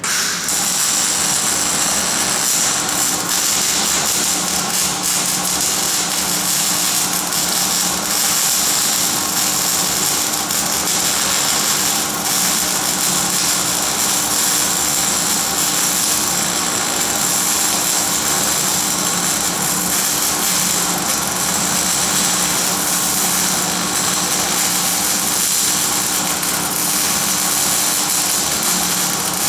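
Electric arc welding: a steady crackling hiss from the arc that starts abruptly and runs on unbroken, with a faint hum from the welding machine beneath it.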